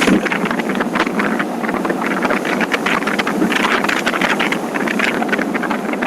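Wind buffeting the microphone of a camera on a moving motorcycle, a loud steady rush with rapid flutter, over the bike's running and road noise.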